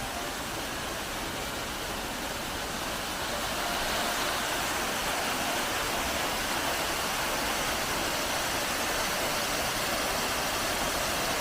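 Steady rushing wind and road noise of a car on the move, growing a little louder about four seconds in.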